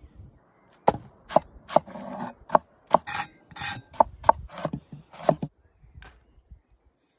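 A hand tool scraping and striking wood in a quick series of about a dozen sharp strokes, roughly two a second. A few of the strokes are longer rasping scrapes, and the strokes stop a little after five seconds in.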